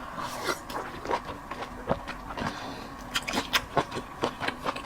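Close-up mouth sounds of a person eating clams: irregular wet smacks and clicks of chewing, several a second.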